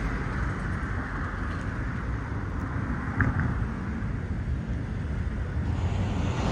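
Steady low engine rumble with no change in pitch.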